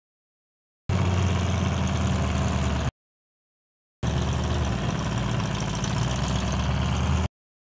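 Mud-bog truck engine running at a steady speed with a deep, even note, heard in two stretches of about two and three seconds, with the sound cutting out completely before, between and after them.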